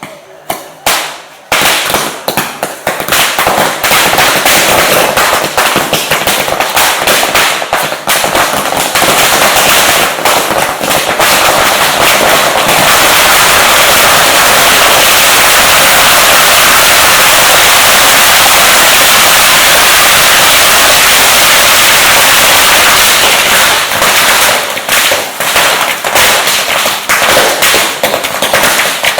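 Firecrackers going off in very rapid succession: separate sharp bangs at first, thickening into one continuous crackle for several seconds in the middle, then thinning back into separate bangs near the end.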